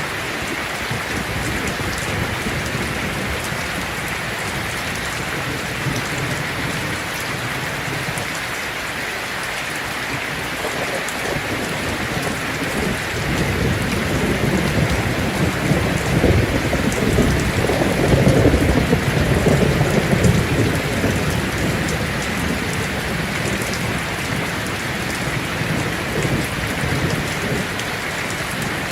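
Heavy rain drumming steadily on a tin roof, with a long rolling rumble of thunder that builds about halfway through, peaks, and dies away.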